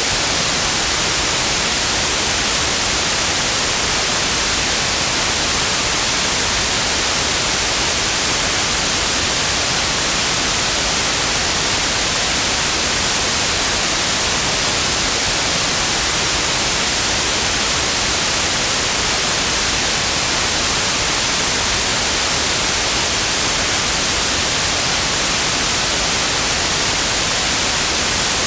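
Synthetic white noise: a steady, unchanging hiss across the whole range, strongest in the highs.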